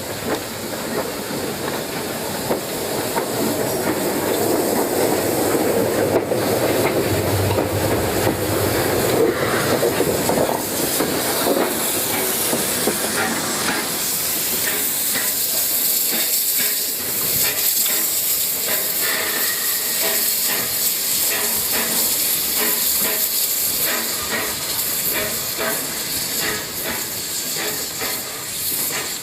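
Steam locomotive and train at close range: a loud steady hiss of steam with a rumble in the first part, then many short clicks and knocks.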